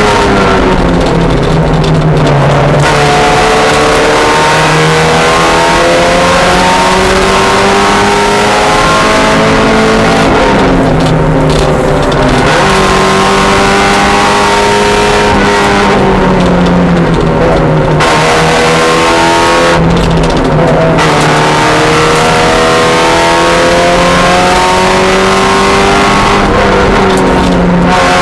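Mazda Miata race car's four-cylinder engine under hard throttle, its pitch climbing steadily and dropping back several times as it shifts and lifts for corners during a race lap.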